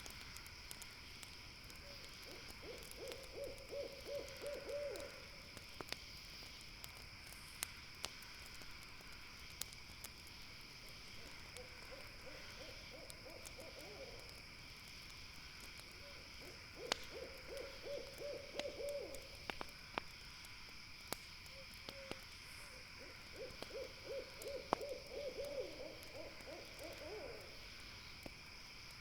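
An owl giving a rapid, pulsing trill four times, a few seconds apart, over the sharp crackles and pops of a campfire and a steady high drone of night insects.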